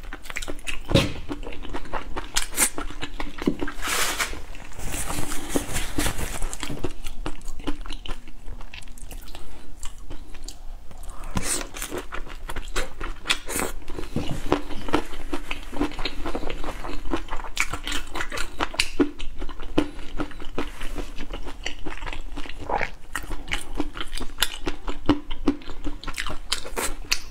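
Close-miked crunching and chewing of whole shell-on spicy prawns, the shells and heads crackling in irregular clicks between bites.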